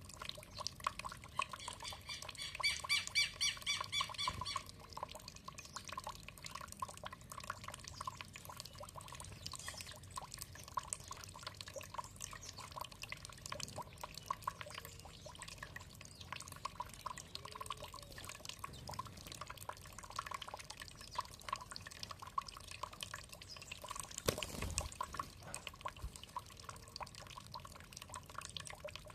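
Water trickling and dripping steadily, with a songbird giving a rapid, high trill about a second in that lasts a few seconds.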